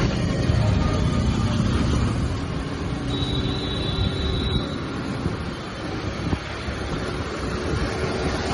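Motorcycle engine running under way in traffic, with wind rushing over the rider's microphone. A steady high beep sounds for about a second and a half, about three seconds in.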